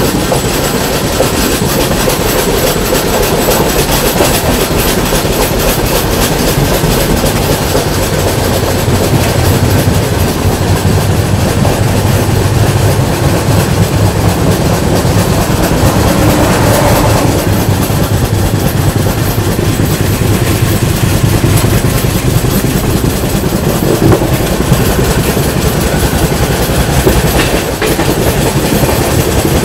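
Loud steady running sound of a moving express passenger train, its wheels clattering over the rails.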